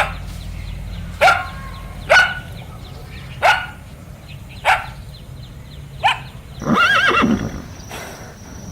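Six short, sharp animal calls about a second apart, then one longer whinny near the end whose pitch wavers up and down.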